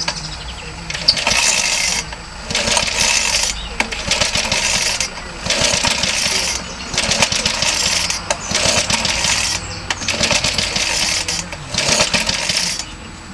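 The engine of a Suffolk Colt lawnmower, freshly rebuilt and choked, being pulled over by hand about eight times in quick succession, each pull a rattling turn-over of roughly a second that does not catch. This is a cold first start after about 20 years out of use.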